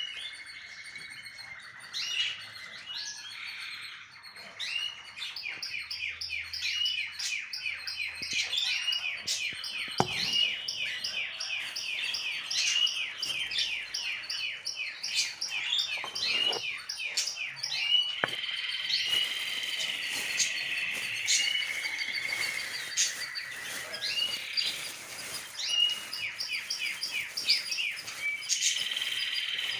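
Cage birds chirping and calling: fast runs of short repeated chirps, with a few held whistled notes between them.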